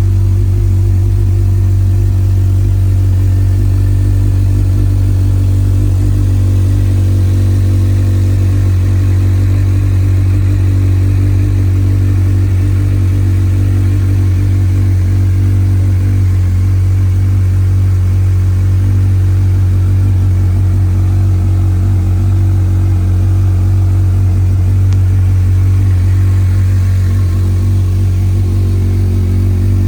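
Honda CBF1000's inline-four engine idling steadily, with an even, unchanging note.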